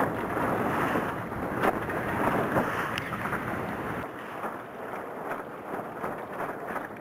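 Wind buffeting the microphone over the rush and splash of sea water around a sailing yacht, easing somewhat about four seconds in.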